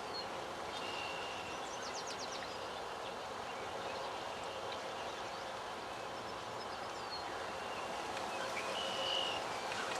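Steady outdoor background noise with a few faint, short, high bird calls, one about a second in and one near the end, and a quick run of faint ticks about two seconds in.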